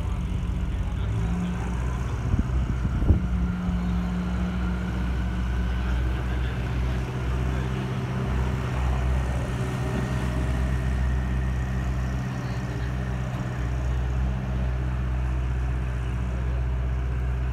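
A car engine idling steadily, a low even hum, with a sharp knock about three seconds in.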